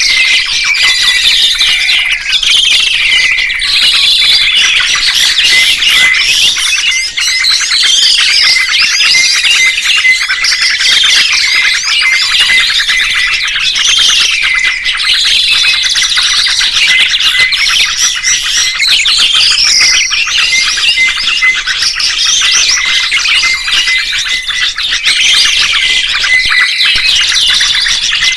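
Songbirds chirping and twittering without pause: many quick, high, overlapping calls and sweeps of song.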